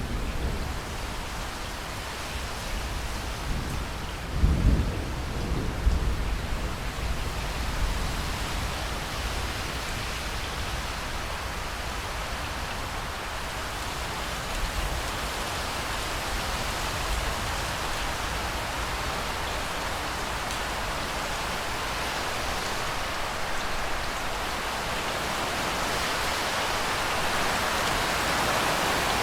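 Steady rainfall, with a low rumble of thunder about four seconds in that fades within a few seconds. The rain grows a little louder near the end.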